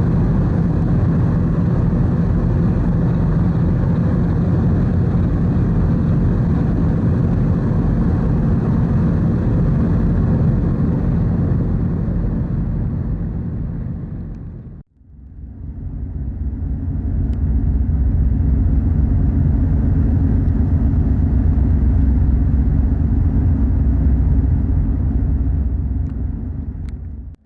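Steady low rumble aboard the car ferry Kuniga under way. About halfway through it fades out completely and fades back in as a heavier, lower rumble.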